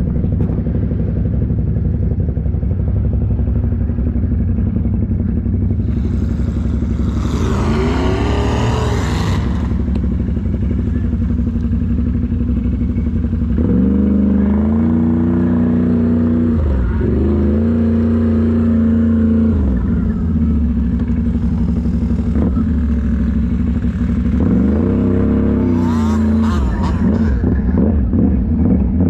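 Off-road vehicle engine running with a steady low rumble, revving up and down several times around the middle and again near the end. A few seconds of rushing noise come in about a quarter of the way in.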